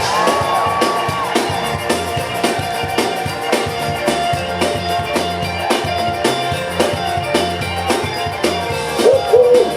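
Live band playing an instrumental stretch of the song, with a steady drum beat about twice a second over a bass line and sustained guitar notes.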